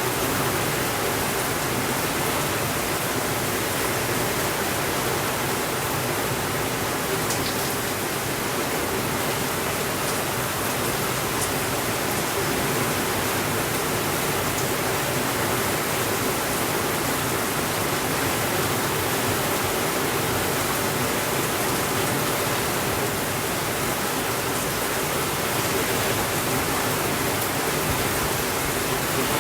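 Steady rainfall, an even hiss that holds the same level throughout, with a few faint ticks.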